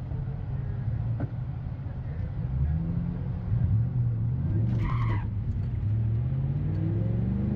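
Car engine idling, heard from inside the cabin, its note wavering under light throttle, then climbing slowly near the end as the car pulls forward. A brief higher-pitched sound about five seconds in.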